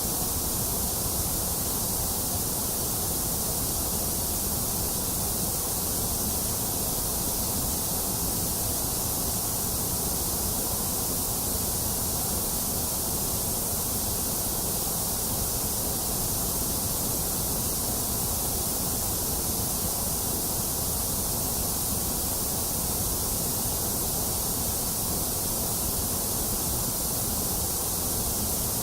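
Steady, unchanging white noise, a constant even hiss with no breaks or events.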